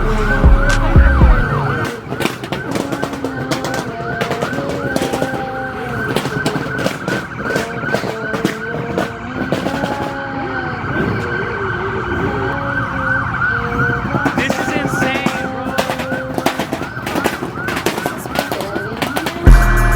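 Several police sirens sounding at once and overlapping: a fast yelp sweeping up and down several times a second over slower wailing tones.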